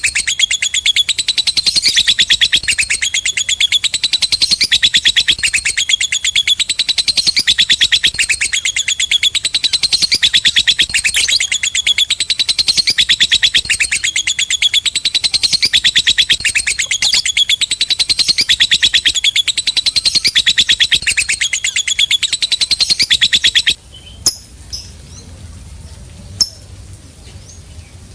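Lovebird singing a long 'ngekek' chatter: a fast, unbroken run of shrill chips that stops abruptly near the end, followed by a couple of short faint chirps.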